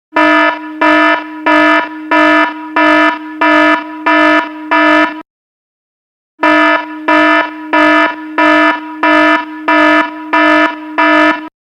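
Electronic alarm sounding a loud, buzzy tone that pulses rapidly. It comes in two bursts of about five seconds each, separated by a pause of about a second, and cuts off near the end.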